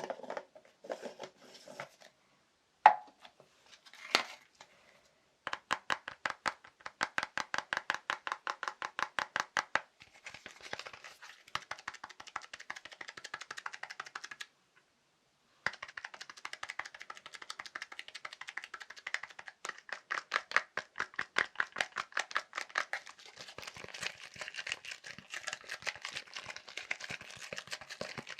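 Fast tapping on assorted small objects, in quick runs of about nine taps a second, with a few single louder knocks near the start and a short pause about halfway through.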